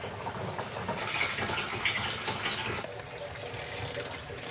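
Water running steadily from a hose into a sailboat's freshwater tank as it fills, a little louder in the first half.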